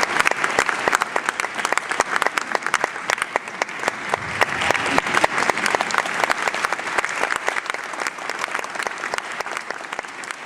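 Audience applauding, many dense claps that thin out and fade toward the end.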